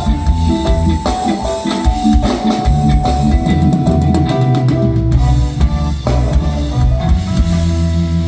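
Live band music: an instrumental stretch with the drum kit and bass to the fore under held instrument notes.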